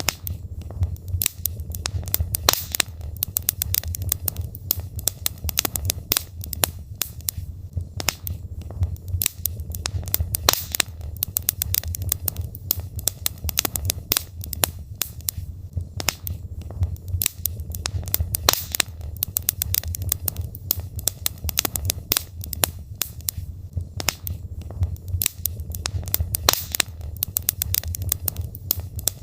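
Wood fire in a fireplace crackling: frequent sharp pops and snaps of burning logs at an irregular pace, over a steady low rumble of the flames.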